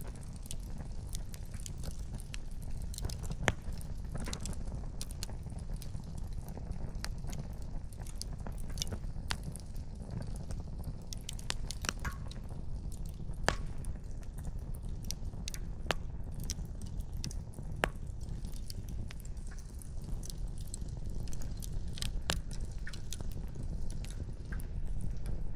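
Wood campfire crackling, with irregular sharp pops and snaps from the burning firewood over a steady low rumble.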